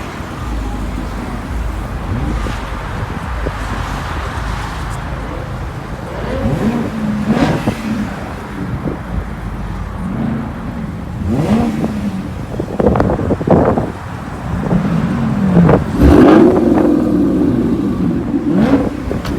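Car engines running and revving, rising and falling in pitch, over a steady bed of road noise, with a few sharper loud bursts in the second half.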